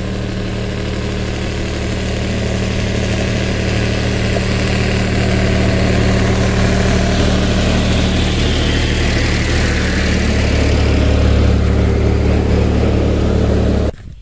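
Tractor engine running steadily, getting a little louder through most of the stretch, then cutting off abruptly near the end.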